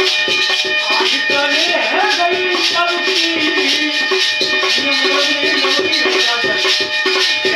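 Live bhajan music: a wavering melody line over steady held drone tones, driven by a quick, even rhythm of dholak drum strokes and a shaker-like rattle.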